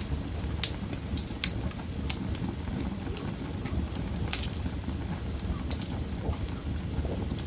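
Wood fire burning in a fireplace: a steady low rumble of flames with sharp crackles and pops from the burning wood, coming irregularly every second or so, the loudest pop just under a second in.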